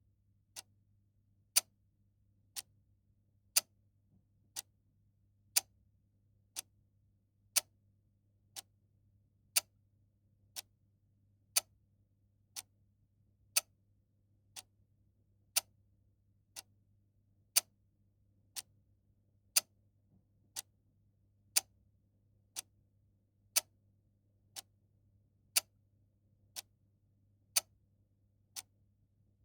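Clock ticking steadily at one tick a second, the ticks alternating louder and softer in a tick-tock pattern.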